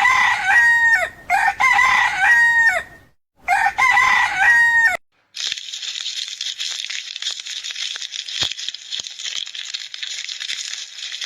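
Rooster crowing several times in a row, each crow a held, cracking call, over the first five seconds. After a short break comes a steady high hiss with scattered faint clicks.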